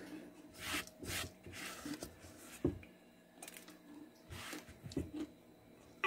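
Close-miked eating sounds of crispy fried sardine: several short, soft crunching and rustling bursts of chewing, with one sharp click a little before the middle.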